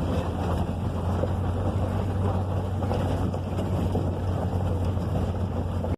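Pickup truck on the move: a steady low engine and road rumble with wind buffeting the microphone, cutting off suddenly at the end.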